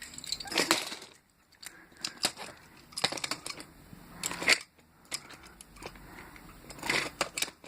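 Irregular clicks, taps and short scrapes of hard plastic and metal toys being handled and moved about on a toy train layout.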